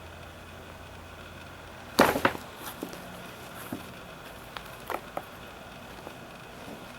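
Paper bag crackling as a cat moves in it: one loud crunch about two seconds in, then a few smaller crinkles and taps.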